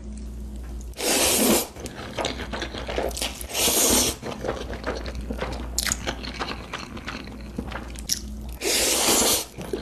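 Close-miked eating of crunchy food: three loud crunching bites, about a second in, about three and a half seconds in and near the end, with softer chewing clicks between them.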